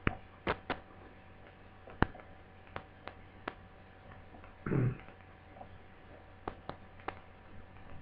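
Scattered light clicks and taps of hands and tools handling a laptop AC adapter's plug head, with a faint steady electrical hum underneath.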